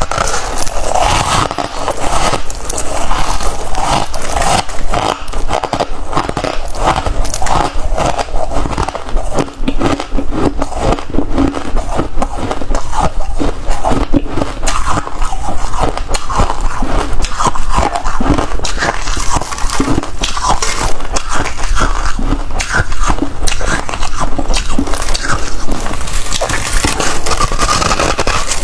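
Freezer frost being bitten and crunched, a dense run of crackling crunches mixed with scraping.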